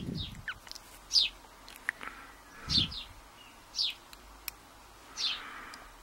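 A small bird chirping: short, falling chirps repeated every second or so. A few faint clicks and a soft low thump about halfway through.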